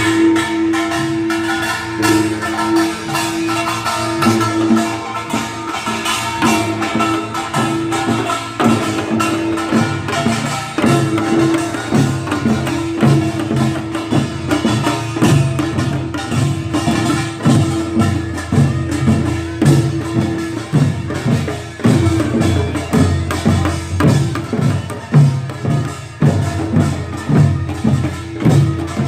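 Korean pungmul (farmers' band) percussion playing a fast, driving rhythm: dense drum and gong strikes over a steady held tone. The low drum beats grow heavier about a third of the way in.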